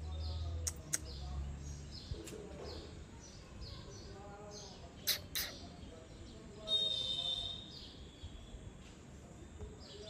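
Small birds chirping: short falling chirps repeating about twice a second, with a louder, longer call about seven seconds in. A few sharp clicks come just after the start and about five seconds in.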